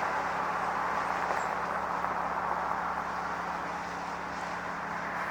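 An engine running steadily, a low hum under a broad rushing noise that slowly fades.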